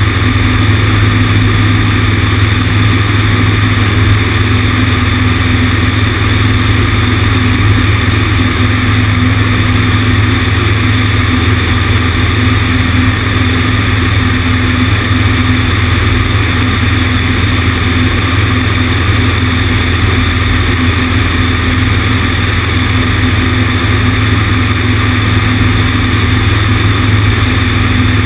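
Cessna 150's four-cylinder Continental O-200 engine and propeller running steadily, heard from outside on the right wing. A loud, even drone with a constant low hum and a rushing hiss on top.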